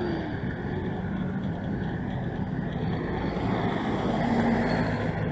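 City street traffic: vehicle engines running and cars passing in a steady wash of noise that swells a little about four seconds in.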